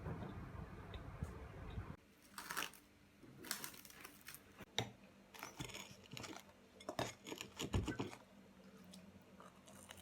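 Close-up handling noises: a low rumble for about two seconds that cuts off suddenly, then a run of irregular sharp clicks and crinkles.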